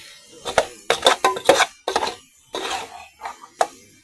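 A run of irregular knocks and clatters, about eight sharp hits, some with a brief ring.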